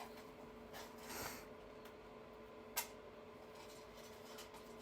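Quiet room tone with a faint steady hum, a short soft hiss about a second in and a single sharp click near the middle.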